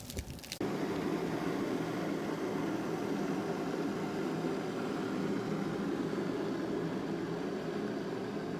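Generator engine running with a steady hum; it cuts in abruptly about half a second in, after a few clicks.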